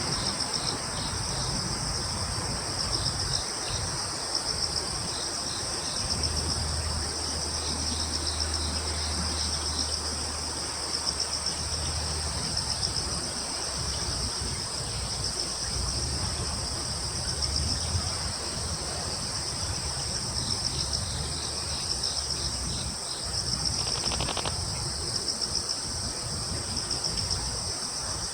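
Crickets and other insects trilling in a continuous high chorus at two pitches, with rows of short, quicker chirps from another insect coming and going. A low rumble sits underneath, with a steady low hum for about six seconds, and there is a brief rapid ticking near the end.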